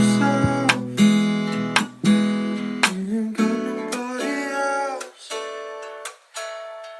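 Music: strummed guitar chords, losing their low end and getting quieter toward the end.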